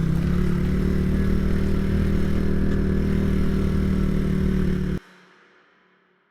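Small motorcycle engine running steadily at constant low revs, then cutting off suddenly about five seconds in.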